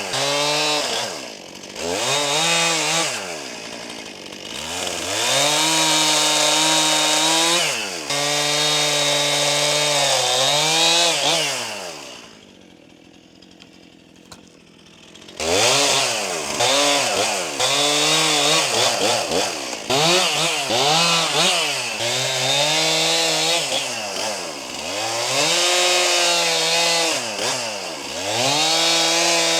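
Stihl MS261 C two-stroke chainsaw cutting wood, its engine revving up and falling back to idle again and again. It drops away for about three seconds near the middle, then comes back suddenly at full speed.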